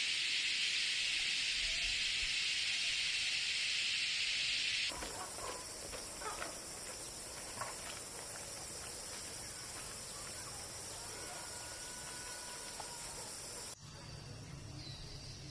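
Steady outdoor hissing noise that changes abruptly twice, about five seconds in and again near the end, as if from separate recordings joined together.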